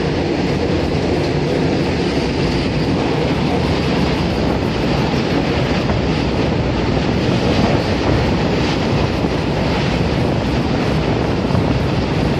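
Konkan Railway Ro-Ro freight train running at speed: a steady rumble and rattle of wagon wheels on the rails, heard from a lorry carried on one of its flat wagons.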